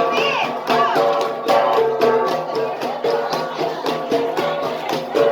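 Gangsa, flat bronze gongs, struck in a fast, steady rhythm with ringing tones, playing Igorot dance music; a few voices are heard over it.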